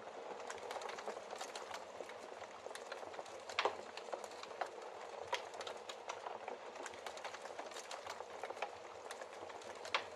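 Logs burning in a fireplace: a steady hiss of flames with constant crackling and small pops, and a sharper pop about a third of the way in and another near the end.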